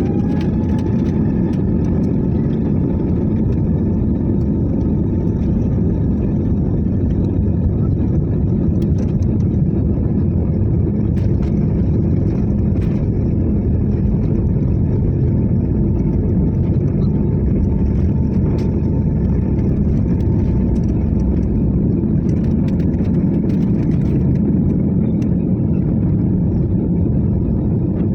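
Airliner jet engines running at high take-off thrust: a loud, steady rumble with a steady whine over it, the whine levelling off just after the start once the engines have spooled up.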